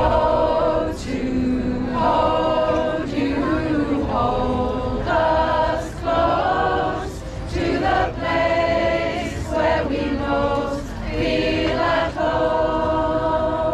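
Choir singing a cappella in a run of short phrases of held chords, with brief breaks between the phrases.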